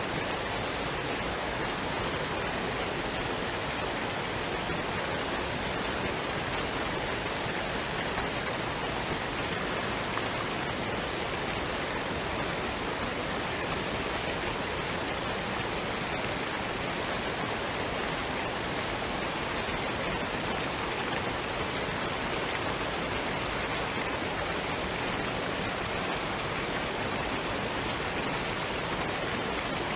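Waterfall and stream water rushing: a steady, unbroken noise of running water.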